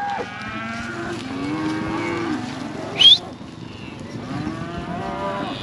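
A herd of cattle mooing, several long calls overlapping one another. About three seconds in, a short, sharp, high-pitched squeal rising in pitch stands out as the loudest sound.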